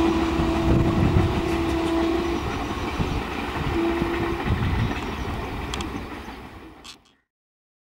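An Indian Railways train passing close by with a steady rumble of wheels on rail. The locomotive horn sounds a long blast that ends about two and a half seconds in, then a short second blast about four seconds in. The train noise fades and then cuts off suddenly about seven seconds in.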